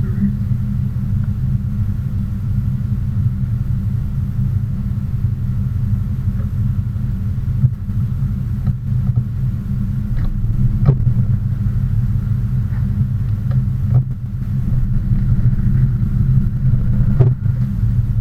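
Steady low rumble of a car, heard from inside, with a few faint knocks over it.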